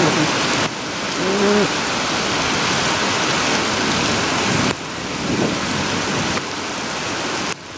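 Heavy rain pouring down close to the microphone, a dense steady hiss. The level drops suddenly several times, near the start, past the middle and near the end.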